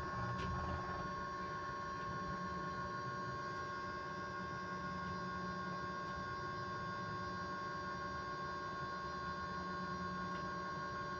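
Electric bus giving off a steady, constant-pitch high hum, several steady tones at once with one strongest, over a low rumble of the bus running.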